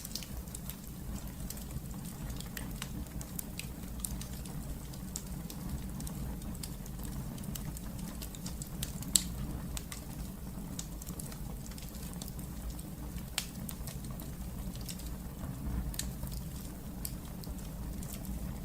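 Wood fire burning in a fireplace, crackling with irregular small pops over a steady low rumble, one sharper pop about halfway through.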